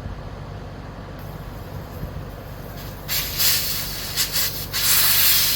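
Air rushing out of a scooter tire through the open valve stem with its Schrader valve core removed: a few short spurts of hissing about three seconds in, then a steady loud hiss as the tire deflates.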